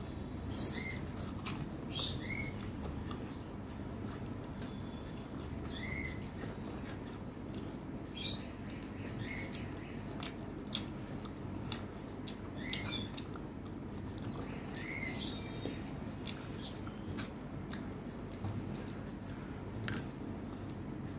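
Close-miked wet eating sounds of rice and mutton curry eaten by hand: sharp mouth smacks and clicks of chewing every second or two, with the squelch of fingers mixing rice into the curry, over a steady low hum.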